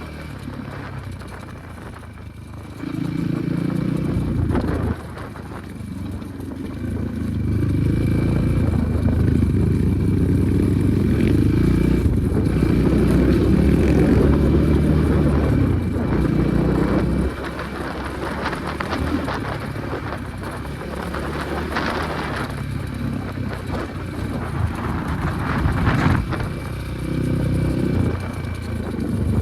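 Enduro motorcycle engine running under way, growing louder and easing off several times.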